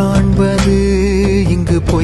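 Indian film-style song: a voice holds a long note with vibrato over steady accompaniment.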